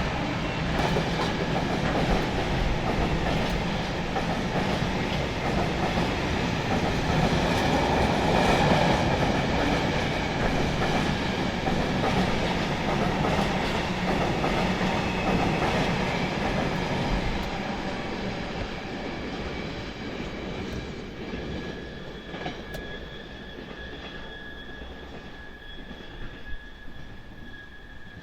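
Wagons of a Class 66-hauled freight train rolling past on jointed rail, wheels rumbling and clacking, then fading away from about halfway through as the train draws off. A thin steady wheel squeal sounds in the second half, typical of wheels on the curve of a junction chord.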